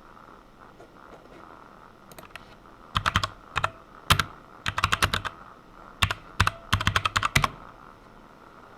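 Typing on a computer keyboard in quick bursts of key clicks with short pauses between, starting about two seconds in and stopping shortly before the end.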